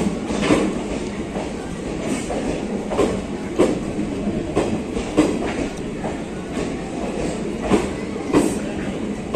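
Indian Railways express coaches rolling past a station platform as the train arrives. The wheels clack over the rail joints about twice a second over a steady rumble.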